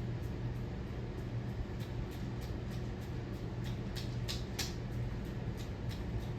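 52-inch Hampton Bay Gazebo ceiling fan running, its motor giving a steady low hum, with a light tick repeating about three times a second that grows louder for a moment about four seconds in.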